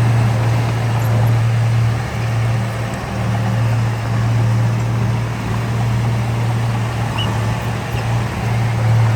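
Heavy diesel engine of earthmoving equipment running steadily under load, a deep even hum with little change in pitch.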